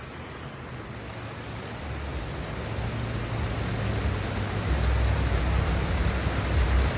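Steady hiss of heavy rain and rushing floodwater in the river channel, with a low rumble that grows louder from about two seconds in.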